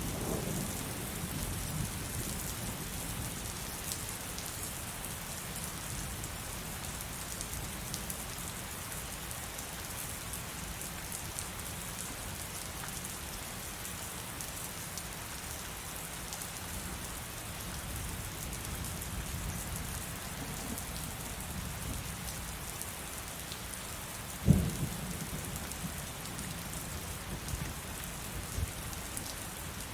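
Heavy rain falling steadily, with low thunder rumbling under it. Late on there is a sudden loud thunderclap, and near the end a smaller one.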